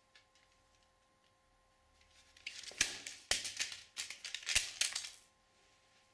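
About three seconds of scraping and rustling with a few sharp clicks, starting about two seconds in, over a faint steady hum.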